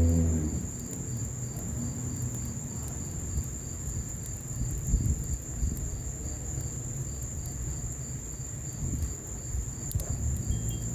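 Crickets trilling steadily, with a second cricket chirping in even pulses about three times a second, over the low rumble and scattered crackles of a fire.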